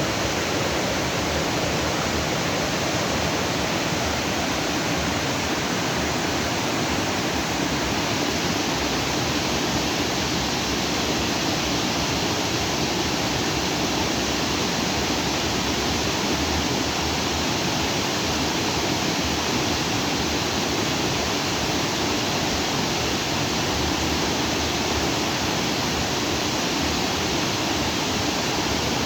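Steady rushing of a stream flowing freely over rocks, an even, continuous wash of water with no breaks.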